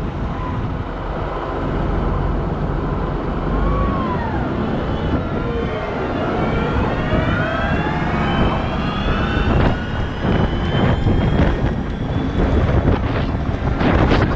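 Heavy diesel machinery working: engines revving up and down over a steady low rumble, with rougher noise near the end.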